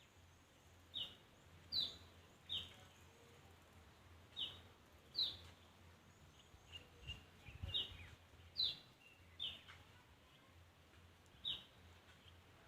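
A bird calling with short, high chirps, repeated roughly once a second at a slightly uneven pace, over faint steady outdoor background noise.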